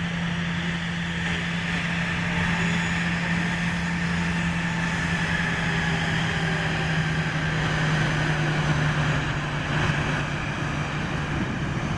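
Jet aircraft engines running, a steady drone with a low hum and a higher whine that both fall slowly in pitch.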